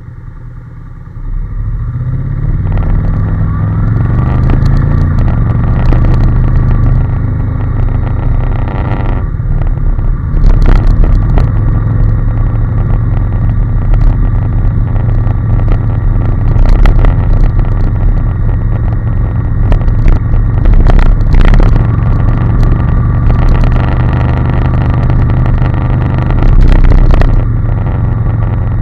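Honda NC750S motorcycle's parallel-twin engine, quieter at first, then pulling away about a second in with its note rising as it accelerates. It then runs at a steady speed with wind noise across the microphone.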